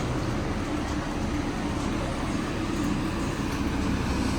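Busy city street ambience: a steady hum of road traffic.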